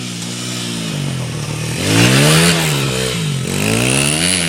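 Homemade trail dirt bike's engine revving up and easing off twice, its pitch rising to the loudest point about two seconds in, dropping, then climbing again near the end.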